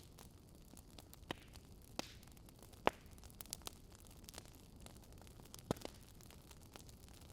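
Fire crackling: scattered sharp pops at irregular intervals over a faint steady hiss, the loudest pop about three seconds in.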